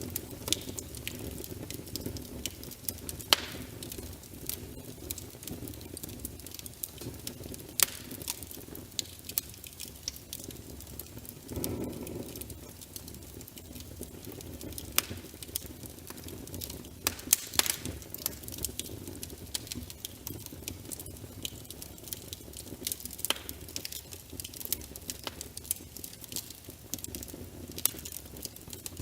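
Wood fire in a fireplace crackling, with frequent sharp pops over a low steady rush of flame that swells briefly near the middle.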